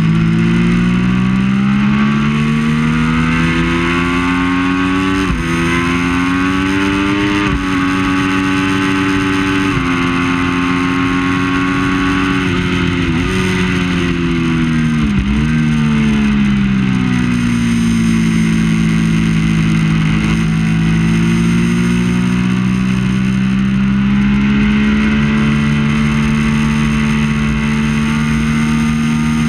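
Triumph Daytona 675's three-cylinder engine at racing speed: it revs up and steps down through quick upshifts early on, then falls away through downshifts about halfway through, and pulls up steadily again near the end.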